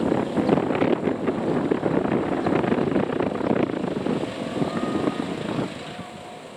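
A train passing close by: dense rumble and clatter of wheels on the rails, dying away about six seconds in.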